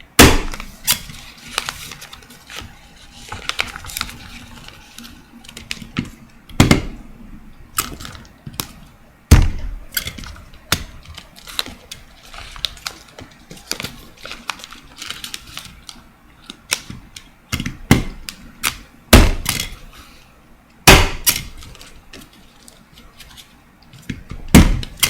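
A desk stapler driving staples into folded paper again and again: several loud, sharp clacks a few seconds apart, with softer clicks in between.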